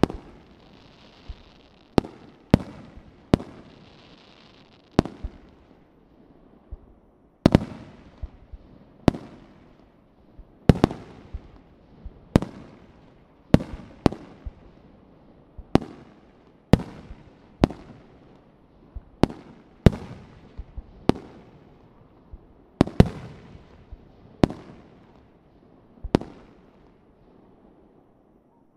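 Aerial firework shells bursting in a show: a string of sharp, echoing bangs, mostly one to two seconds apart, some in quick pairs. A faint hiss rises twice in the first few seconds.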